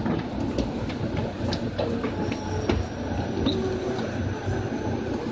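Running noise of an electric train heard from inside a motor car (Moha 2375 of formation 2075F): a steady low rumble of wheels on rail, with scattered sharp clicks and a faint high whine that drifts slowly in pitch.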